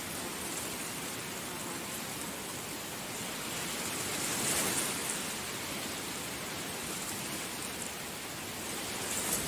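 Heavy rain falling in a steady, dense hiss, swelling briefly about halfway through and again near the end.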